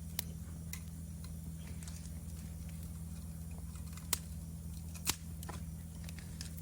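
Wood campfire crackling, with scattered sharp pops, the loudest about four and five seconds in, over a steady low hum. Faint steady insect calls run high above.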